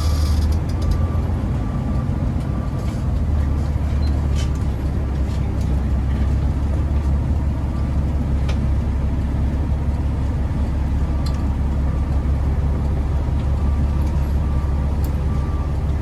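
Big rig truck's diesel engine running steadily, a deep drone heard from inside the cab. A faint high beep repeats at even intervals in the background.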